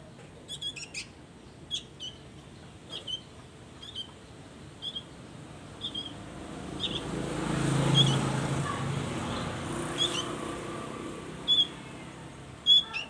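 Songbirds giving short, sharp chirps about once a second. In the middle a low rumbling noise swells up and fades away.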